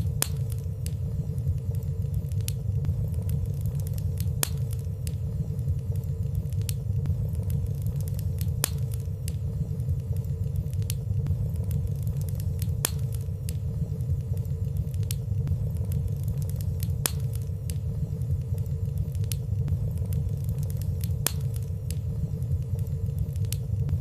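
Wood fire burning in a fireplace: a steady low rumble of flames with frequent small, sharp crackles and ticks scattered irregularly throughout.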